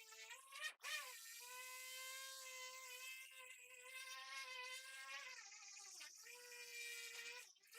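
Small electric power tool motor whining steadily as it sands or grinds bare metal. Its pitch sags under load and it cuts out briefly twice, about a second in and near the end.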